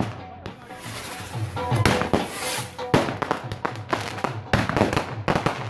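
Fireworks going off: a string of sharp bangs and crackles, with a long hiss through the first half, over music with a steady beat.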